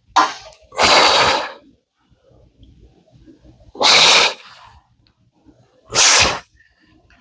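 A man blowing out four hard breaths, roughly one every two seconds, as he strains through calf raise reps.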